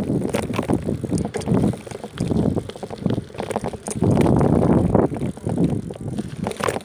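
Wind buffeting the microphone on a moving bicycle, a rough gusting rush with many small rattles and knocks through it, loudest about four seconds in.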